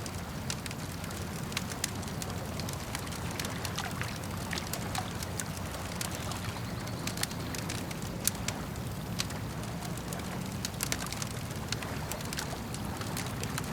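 Campfire crackling, with irregular sharp pops and snaps scattered through it, over a steady low rumble and the wash of lake water.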